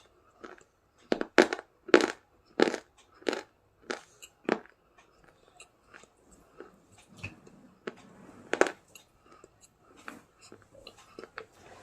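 Person chewing crunchy food close to the microphone: a run of loud crunches about every half second, then softer chewing with one more loud crunch near the end.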